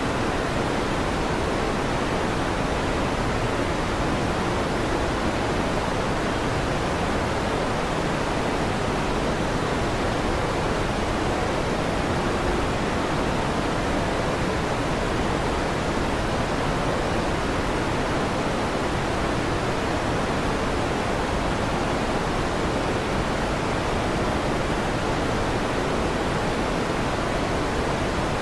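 Electric fan running with a steady, even whoosh.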